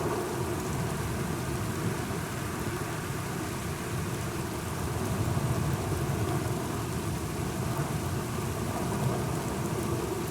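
Steady rain falling, with a continuous low rumble beneath it.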